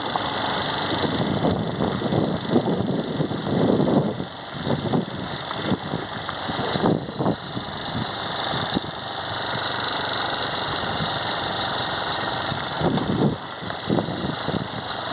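Steady rushing noise with irregular gusts of wind buffeting the microphone.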